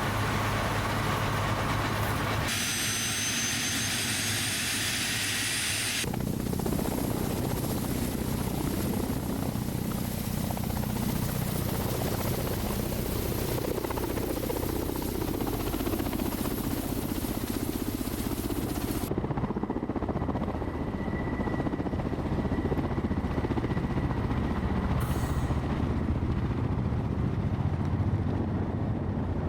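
Ka-52 attack helicopter running, a steady engine and rotor drone whose sound changes abruptly a few times, around the 2.5, 6 and 19 second marks.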